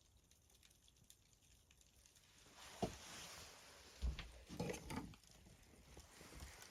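Faint sound of a fire being lit in a wood-burning fireplace. About two and a half seconds in, a soft hiss swells up as the kindling catches, with a few light knocks of wood.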